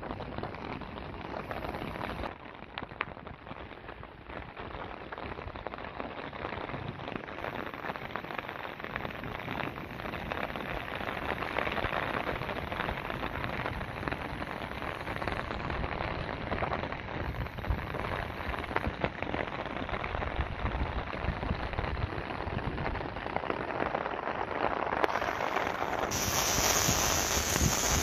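Steady rain falling, with drops pattering on surfaces, growing louder and heavier near the end.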